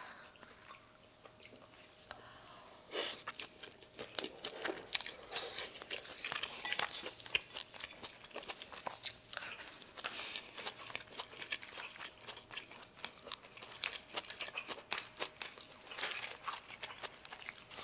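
A person chewing and eating a mouthful of rice and side dishes close to the microphone, many short clicky mouth and bite sounds coming irregularly.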